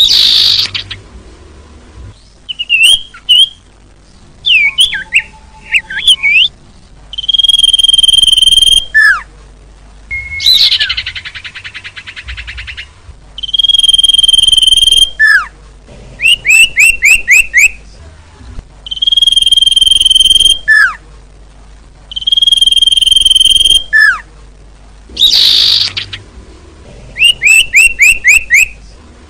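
Looped bird-lure recording of small songbird calls: held whistled notes, quick runs of short falling chirps, and trills. The calls come in bursts every few seconds with short quiet gaps between them.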